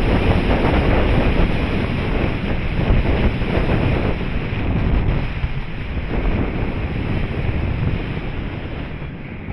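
Wind buffeting the microphone, a loud, gusty rushing that is heaviest in the low end and eases off gradually over the last few seconds.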